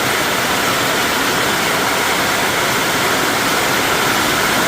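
Heavy rain pouring down, a steady, loud, unbroken rush.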